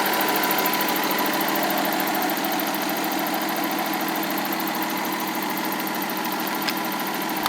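Nissan RB20 straight-six engine idling steadily, with one light click near the end.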